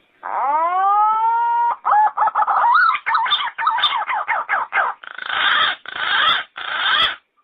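Yellow-footed green pigeon calling: one long whistle that rises and then holds for about a second and a half, followed by a quick run of warbling notes. It ends in three rougher, harsher notes.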